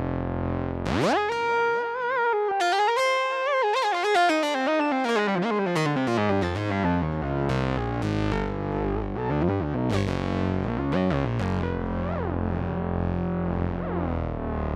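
Moog Muse eight-voice polyphonic analog synthesizer playing a lead line. A fast upward pitch glide comes about a second in, then wavering held notes and falling sweeps over a sustained low bass note.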